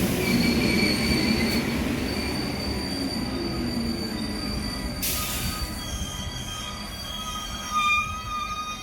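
Red Rattler heritage electric train moving through the station, its steel wheels squealing on the rails in several high, shifting tones over the train's low rumble. A short burst of hiss comes about five seconds in.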